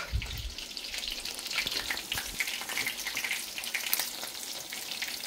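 Food frying in a hot pan: a steady crackling sizzle full of small pops, with a low thump right at the start.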